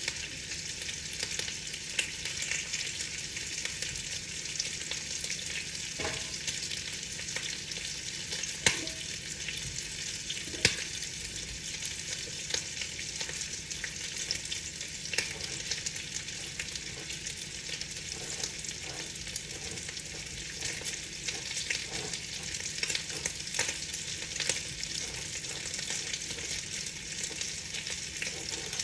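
Steady rain pattering on a window pane: an even hiss with many small drop ticks and a few sharper taps scattered through it.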